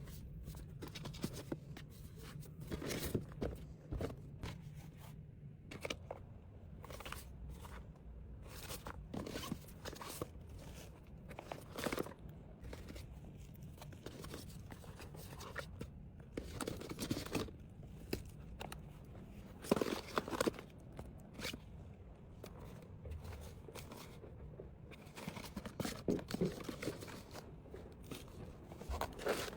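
Irregular handling sounds as items and packaging are picked up and set down: light knocks, scrapes and rustles at an uneven pace.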